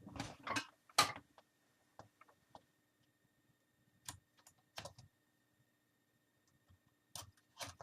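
Plastic screen bezel of an Acer Aspire 5750 laptop being pried off, its snap clips clicking loose as it is worked along the edge. Sharp clicks in short groups: several in the first second, a few scattered single clicks through the middle, and a quick pair near the end.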